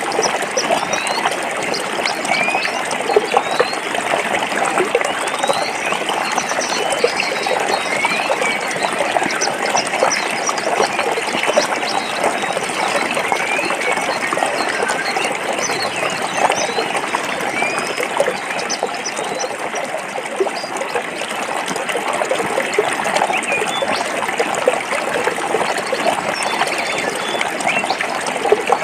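Stream water flowing and trickling over rocks, a steady babbling rush without a break.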